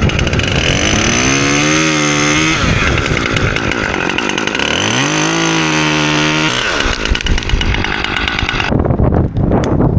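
Chainsaw running and revving up twice, its pitch climbing and then holding for a second or two each time.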